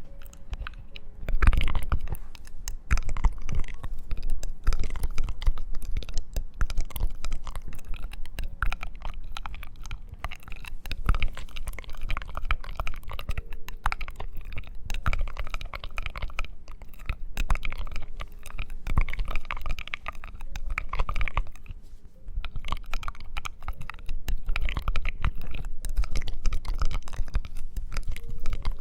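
Close-miked ASMR trigger sounds: dense, irregular crackling and scratching, briefly quieter about three-quarters of the way through.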